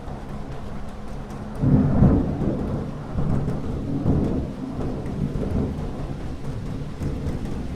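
Thunder rumbling over steady rain. The low rumble breaks in loudly about one and a half seconds in, swells again a couple of times and slowly eases off, under the constant hiss of rainfall.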